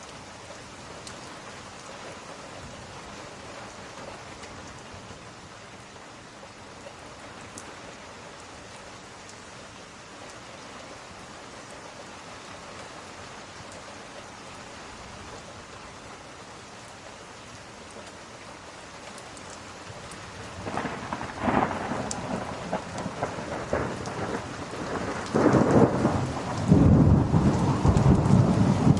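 Steady rain hiss, then about twenty seconds in a thunderclap begins rolling and rumbling, growing louder and loudest near the end.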